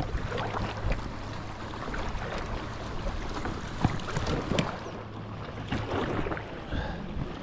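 Paddle splashing in the water as a small boat is paddled along, with some wind on the microphone.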